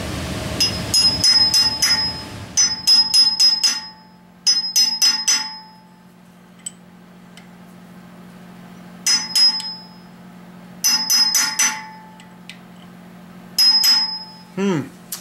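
Quick bursts of hammer taps on a metal driver, with a clear metallic ring after the strikes, about six bursts in all, as a small soft plug is tapped into the engine block.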